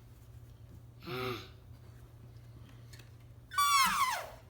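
Voices imitating animal noises: a short, low call rising in pitch about a second in, then a loud, high squeal sliding down in pitch near the end. A faint steady hum lies underneath.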